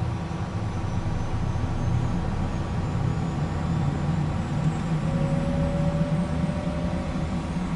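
Cessna Citation II's number 2 Pratt & Whitney JT15D turbofan spooling up after light-off in a battery start, a steady engine rumble with a faint tone rising slightly past the middle.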